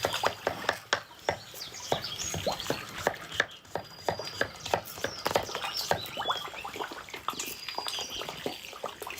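Carp feeding at the water's surface: a rapid, irregular run of sharp smacking and sucking pops as they take the pumpkin feed.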